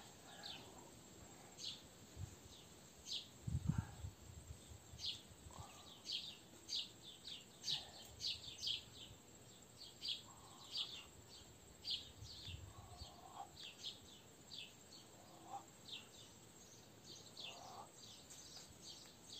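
Small birds chirping: many short, high-pitched chirps repeating irregularly, several a second at times. A low dull thump about four seconds in.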